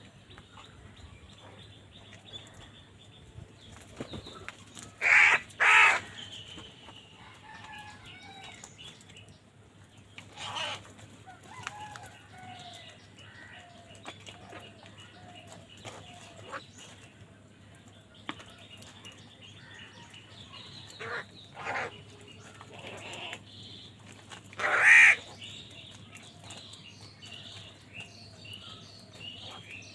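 Crows cawing: loud, harsh caws in short groups, a pair about five seconds in, one near the middle, a few more later and the loudest near the end, with fainter caws between them.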